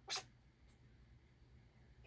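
A young pet squirrel makes one short, sharp, breathy noise just after the start.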